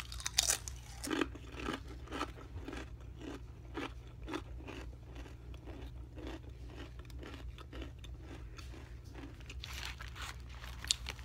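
Tortilla chips being crunched and chewed with the mouth close to the microphone, a steady rhythm of about two crunches a second, louder at first and then softer. A brief sharp click near the end.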